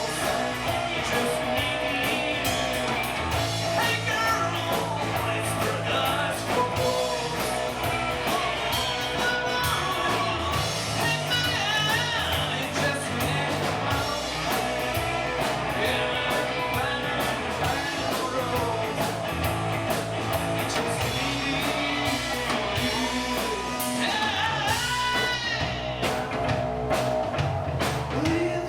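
Rock band playing a song: a singer's voice over guitar, bass and drums.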